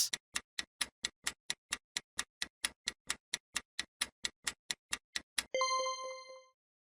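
Countdown clock sound effect ticking at about four ticks a second, ending after about five and a half seconds in a single ding that rings for about a second.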